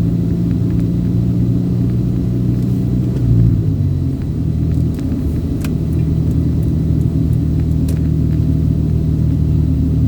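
Road vehicle's engine running steadily with a low rumble; its pitch shifts down about four seconds in, with a few faint clicks.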